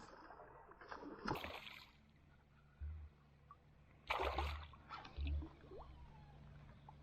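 Faint splashing and sloshing of shallow river water: a few separate splashes, near the start and again about four and five seconds in, some with a low thud beneath.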